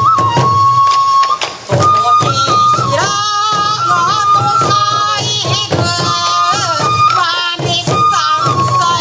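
Sansa odori festival music: a bamboo flute melody over repeated taiko drum strokes, with singing joining in about three seconds in.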